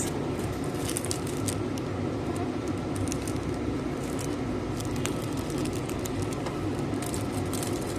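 Steady background hum of a convenience store, with scattered small clicks throughout.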